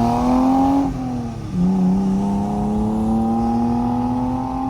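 Car engine accelerating under load: the revs climb, fall back at a gear change about a second in, then climb steadily again and drop off near the end.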